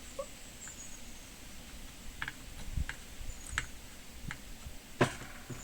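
A few light, scattered clicks and taps of a soldering iron and tools against a circuit board during hand soldering, with one sharper tap near the end.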